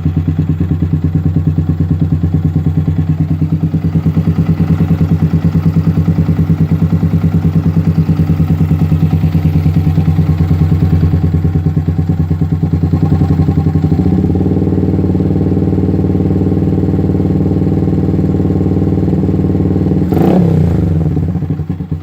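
Yamaha Vixion's single-cylinder four-stroke engine idling through an aftermarket racing exhaust, a steady, even pulsing beat. One brief throttle blip near the end, the pitch jumping up and falling back.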